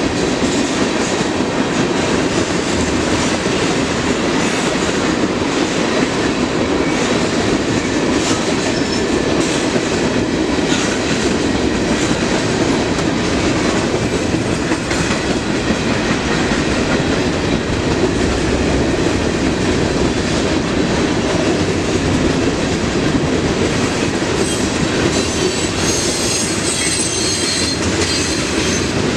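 Train cars rolling steadily past with a continuous rumble and the clickety-clack of wheels over rail joints. Near the end, high-pitched wheel squeal joins in.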